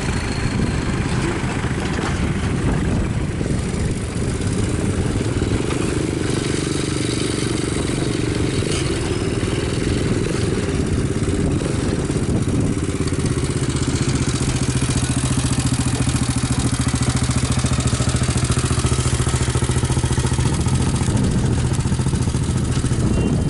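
A vehicle engine running close by. Its speed shifts during the first half, then holds steady from about halfway through.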